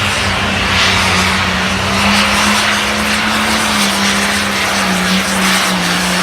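Limited Pro Stock pulling tractor's turbocharged diesel engine running flat out under load during a pull: a loud, steady drone with a slightly wavering pitch.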